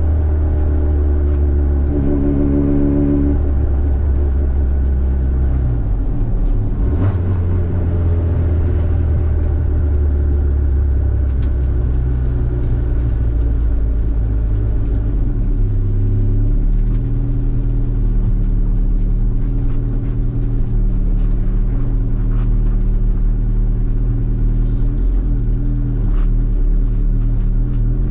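Engine drone and road noise heard inside the cabin of a turbocharged Honda Civic while it is driven. The engine's pitch holds steady and then shifts a few times as the revs change.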